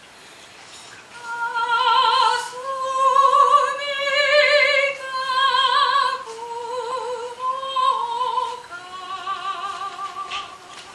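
Music: a woman's high voice singing long held notes with a strong vibrato, in an operatic style. It begins about a second in and moves from note to note every second or two.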